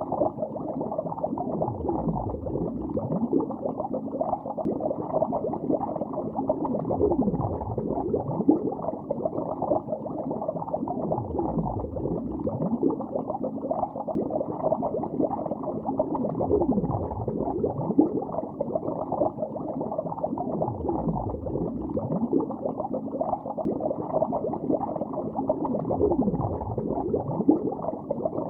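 Bubbles streaming underwater in a lake: a steady, muffled bubbling full of short gliding tones.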